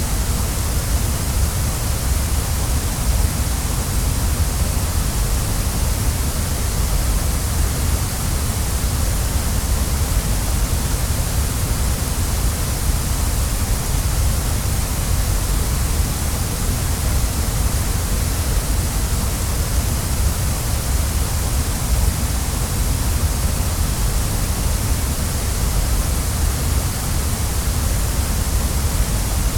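Waterfall, its water falling and rushing steadily: an even, unbroken hiss with a deep rumble underneath.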